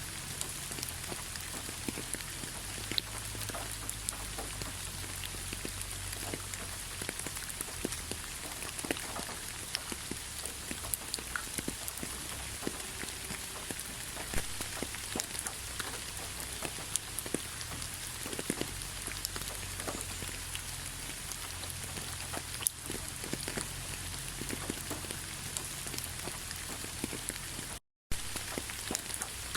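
Steady rain, many separate drops ticking on surfaces close by over a continuous hiss. The sound cuts out for a split second near the end, then resumes.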